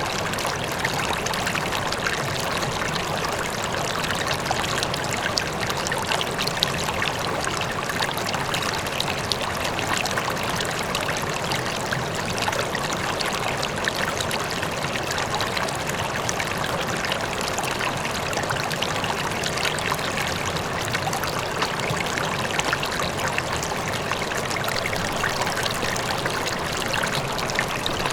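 River water flowing steadily over stones, a continuous rushing and trickling with small splashes, with a waterfall running faintly in the distance.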